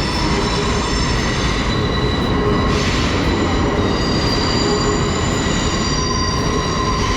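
Long Island Rail Road train leaving the platform: a steady rumble of wheels on rails with several high, held squealing tones over it. A short hiss comes through about three seconds in.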